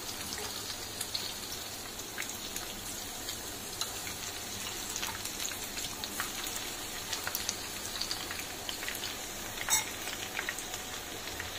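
Batter-coated chicken lollipops frying in hot rice bran oil in a non-stick pan over a low gas flame: a steady sizzle with many small crackles, and one sharper crackle about ten seconds in.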